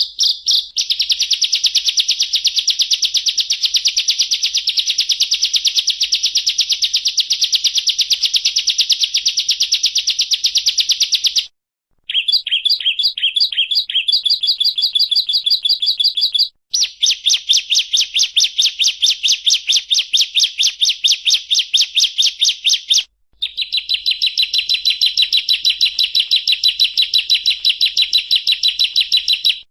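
Bar-winged prinia (ciblek) singing a long, rapid 'ngebren' trill of sharp, high, closely packed notes. Three brief breaks interrupt it, and the note pattern shifts after each one.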